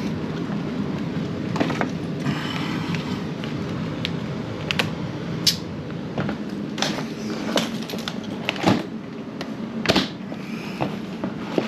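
Irregular sharp clicks and knocks of hand tools and a switch box's cover plate being worked on, over a steady low hum.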